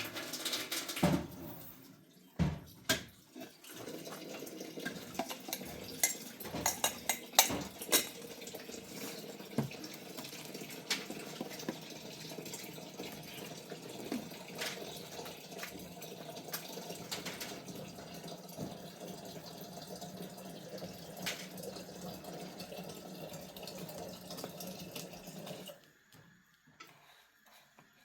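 Water running steadily from a tap into a sink, with scattered clinks and knocks of dishes. The water cuts off abruptly near the end.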